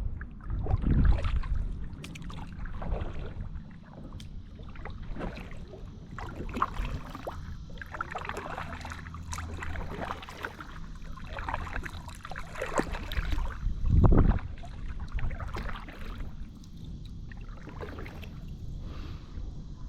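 Kayak paddling: irregular splashes and drips of water from the paddle blades. Two heavier low thumps stand out, about a second in and again around fourteen seconds.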